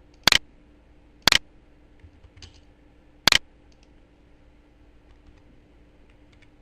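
Computer mouse clicking: three sharp single clicks about a second, then two seconds apart, with a few faint ticks between them.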